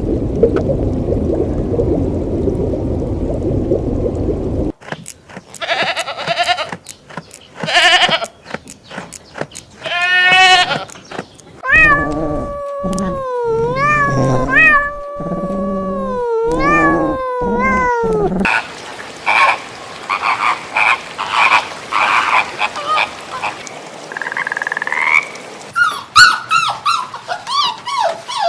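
Animal calls in short clips one after another: a low rumbling noise for the first five seconds, then a series of repeated short calls, a run of pitched calls that rise and fall, and more short calls near the end.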